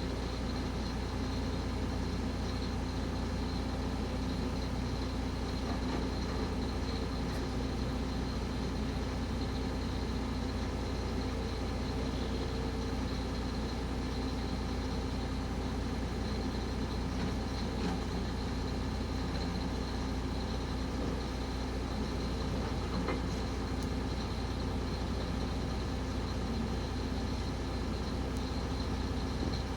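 Heavy work vehicle's engine running steadily, a constant low hum with no changes in speed.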